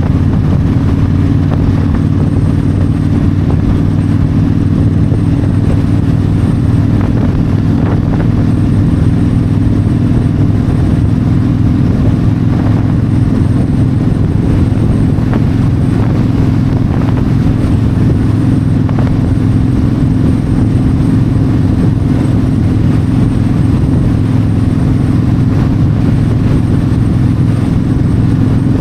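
Yamaha V-Star 1300's V-twin engine running steadily at cruising speed on the highway, its low even drone mixed with wind rushing past.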